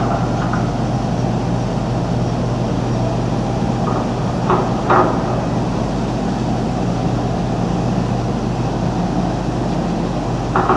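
A steady low mechanical hum with a few short knocks about four and five seconds in.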